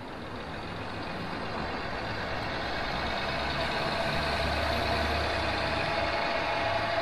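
Diesel train engine sound running steadily, a low throb under a hissing haze, growing louder over the first few seconds.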